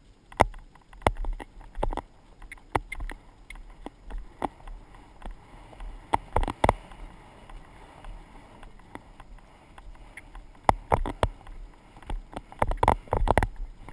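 Irregular knocks, clicks and rattles on a GoPro camera's housing as it is jostled, some in quick clusters, over a low rumble of movement.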